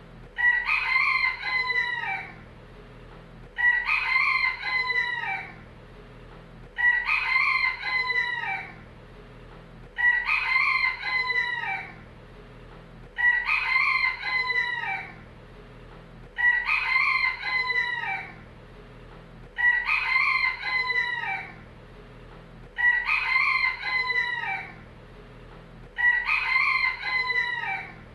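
A rooster crowing cock-a-doodle-doo over and over, each crow about two seconds long, nine crows repeating identically about every three seconds.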